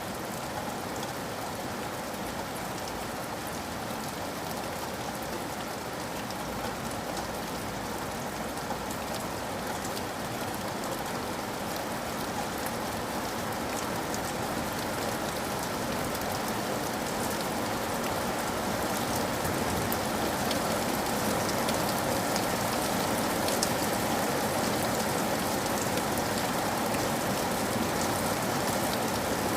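Steady rain falling, a dense hiss with many small drop ticks, growing slightly louder toward the end.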